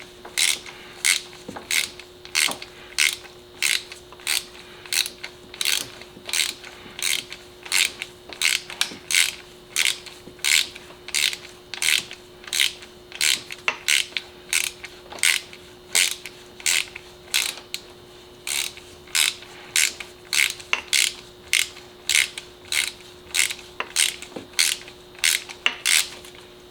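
Hand ratchet clicking in steady back-and-forth strokes, about two a second, as a new spark plug is run down into the cylinder head.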